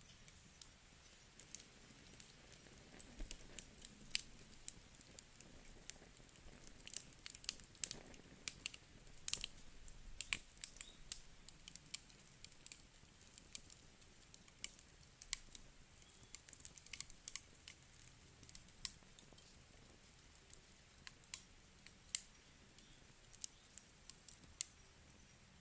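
Wood fire crackling in a fireplace: faint, irregular sharp pops and snaps over a soft steady hiss, busiest a few seconds in.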